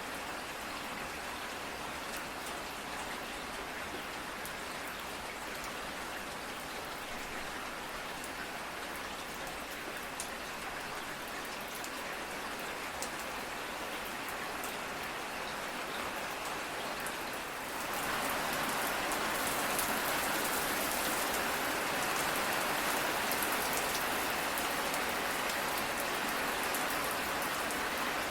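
Steady rain with scattered drop ticks. About eighteen seconds in it abruptly turns louder and brighter, as if a heavier shower or a different rain recording takes over.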